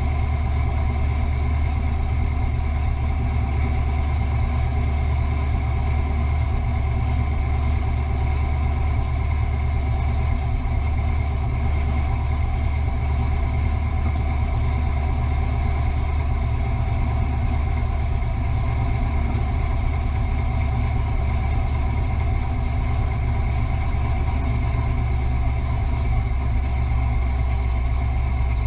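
Fox-body Ford Mustang's engine idling steadily, a deep even sound that holds without any revving.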